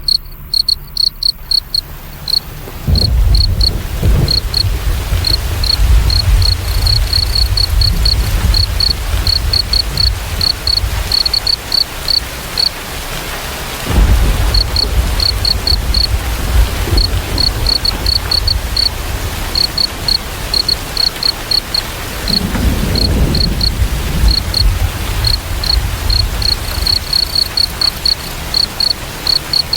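Crickets chirping in quick runs of short, high chirps over the steady hiss of rain. Low rumbles of thunder come in three times: about three seconds in, about fourteen seconds in and about twenty-two seconds in.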